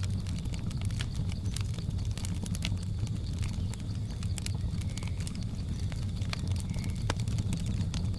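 Wood fire crackling, with irregular sharp pops and snaps over a steady low rumble. A faint steady high insect drone and a couple of short chirps from the jungle ambience sit behind it.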